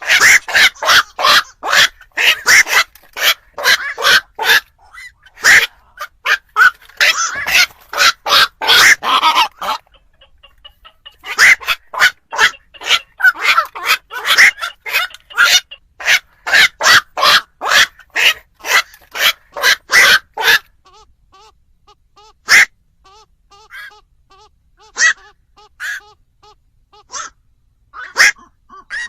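Black-crowned night heron calls: short, harsh, repeated croaks in quick runs of several a second, with a brief pause about ten seconds in, then fewer, scattered calls near the end. Played as a lure call for trapping the birds at night.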